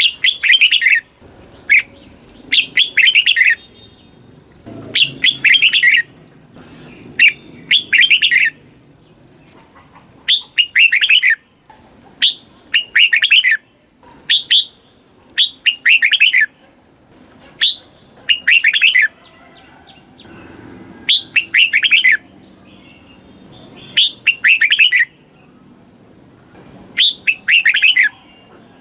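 Red-whiskered bulbul singing: short, bright phrases of quick warbling notes, repeated every one to three seconds.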